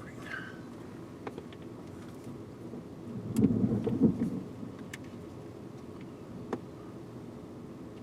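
Steady low hum of a vehicle, with a louder low rumble of thunder lasting about a second near the middle.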